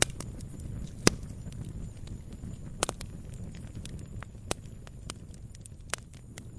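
Campfire crackling: irregular sharp pops and snaps of burning wood over a steady low rumble of flames, with the loudest pops about a second in and near three seconds.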